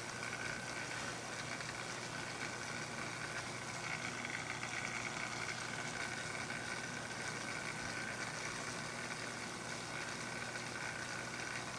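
A small motor running steadily, with an even hiss and a steady high whine.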